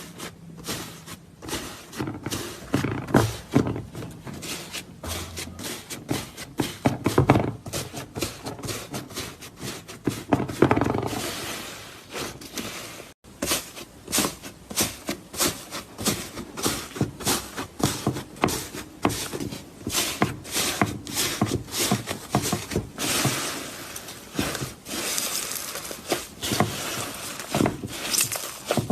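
Slime being squeezed and worked by hand, making rapid, irregular clicks and crackles several times a second.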